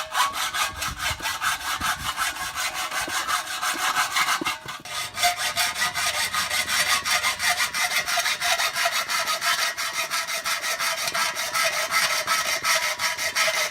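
Hacksaw cutting into the sheet metal of a metal tank, in quick, even back-and-forth strokes that stop near the end.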